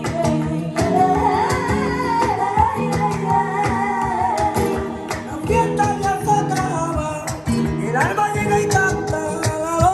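Latin, flamenco-style guitar music with a sung melody over plucked guitar notes, played back through Klipsch RP-500M II bookshelf speakers driven by a Willsenton R300 tube amplifier.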